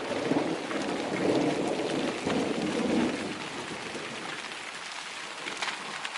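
Heavy rain pouring down in a downpour, with a low rumble of thunder over the first three seconds or so.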